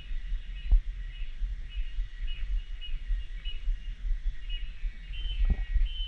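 Forest birds calling, short chirping notes repeated about twice a second, over a steady low rumble on the microphone. Two dull thumps, one about a second in and one near the end.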